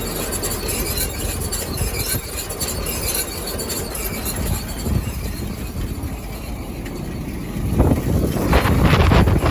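John Deere 569 round baler running, a steady mechanical noise that grows louder with a heavier rumble in the last second or two.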